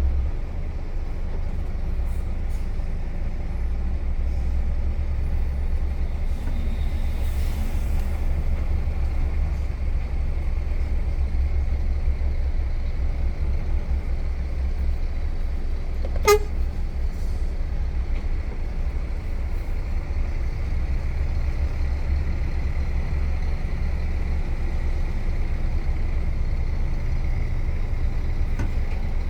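Truck's diesel engine running steadily on the road, a constant low rumble as heard from the cab. About 16 seconds in there is a single short, sharp snap.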